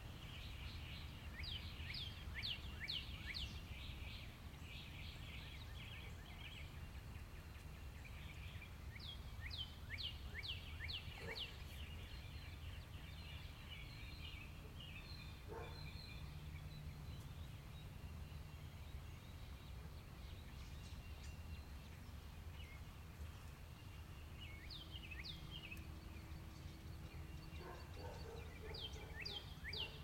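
Songbird singing: short phrases of quick, high, downward-sliding notes that come back every several seconds, over a steady low background rumble.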